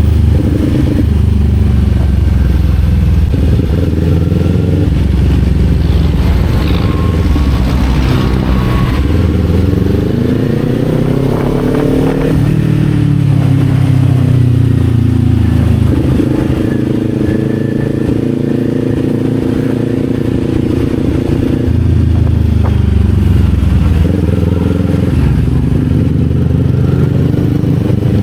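Kawasaki Z400 parallel-twin engine running on the road, heard from the rider's seat. Its pitch climbs steadily, drops suddenly about twelve seconds in, settles, and climbs again near the end.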